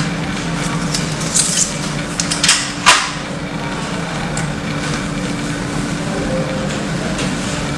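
A few sharp plastic clicks and scrapes from taking apart a mechanical keyboard, the loudest about three seconds in, over a steady low hum.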